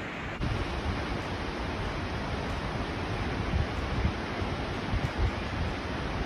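Rushing water making a steady, even roar, with wind buffeting the microphone in low gusts. The roar steps up abruptly just under half a second in.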